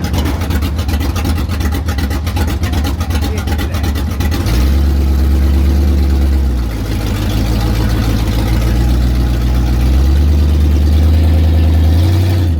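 Monster truck's big engine running, its low drone shifting in pitch and strength several times as it drives and revs.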